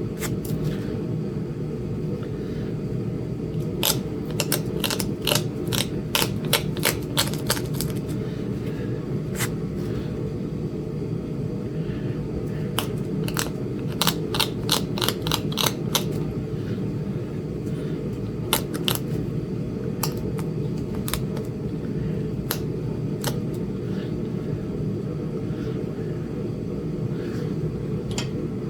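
Flintknapping: short runs of sharp clicks, several a second, as a tool taps on a small piece of Flint Ridge chert, with a few single clicks later on. A steady low hum lies underneath.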